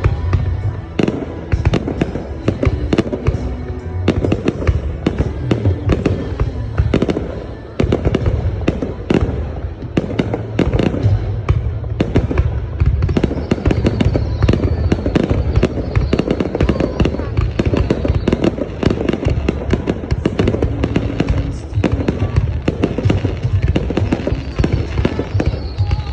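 Fireworks display: a dense, continuous barrage of bangs and crackles, many bursts every second with deep booming underneath.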